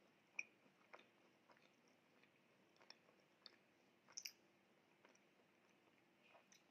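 Faint close-up chewing and wet mouth clicks from a person eating a pink macaron, with a sharper click about half a second in and a quick pair of clicks about four seconds in.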